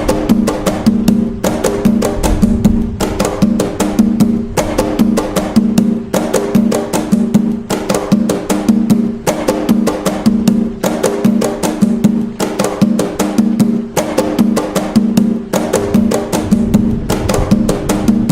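Atabaque hand drums playing the toque nagô rhythm of Umbanda continuously: a quick, steady stream of sharp hand strokes in a repeating pattern, over the drums' ringing low tones.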